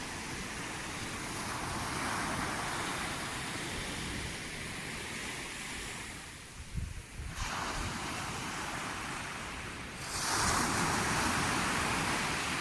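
Sea waves washing on the shore in a steady rush. The surf swells about two seconds in and again, louder, from about ten seconds. Brief low thumps of wind on the microphone come around the middle.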